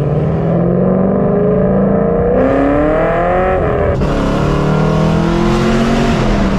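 2010 Camaro SS's 6.2-litre V8 accelerating hard through the gears. The engine note climbs in pitch, drops at a gear change about four seconds in, then climbs again.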